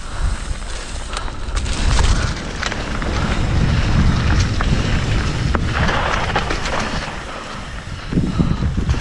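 Wind buffeting a helmet-mounted action camera's microphone on a moving mountain bike, a steady low rumble with tyre noise and a few sharp knocks and rattles from the bike on the rough trail. A short hiss of tyres over loose ground comes about six seconds in.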